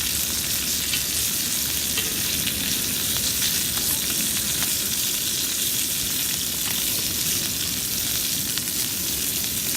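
Chicken wings frying in a cast-iron pan: a steady sizzle with frequent small pops.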